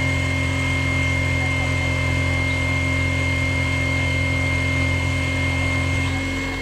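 Manual milling machine running steadily with an end mill cutting the width of the part: a steady motor hum with a thin high whine over it, dropping off right at the end.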